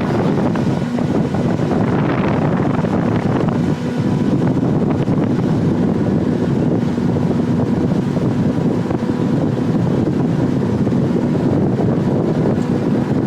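Motorboat engine running steadily, a constant hum under heavy wind buffeting on the microphone.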